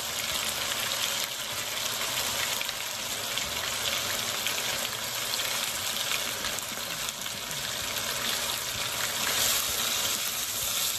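Chicken pieces and egg sizzling in hot oil in a wok while being stirred and scrambled with a wooden spatula: a steady frying hiss.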